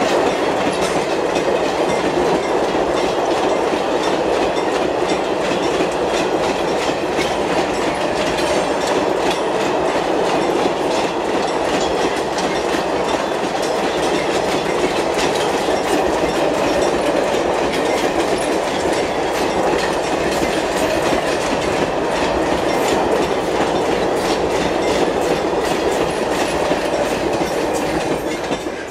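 Freight train of covered goods wagons rolling past: a steady rumble of wheels on rail with a fast clickety-clack of wheels over the rail joints. The sound falls away near the end as the last wagon clears.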